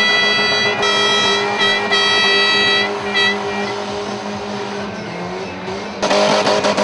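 Demolition derby cars running, with a long, high-pitched tyre squeal that breaks off and resumes over the first three seconds. A loud, harsh noise starts suddenly near the end.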